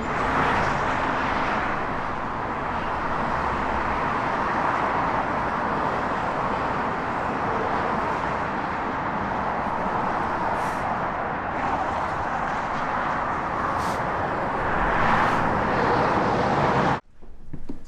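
Steady wash of road traffic noise, swelling slightly near the end and then cutting off suddenly.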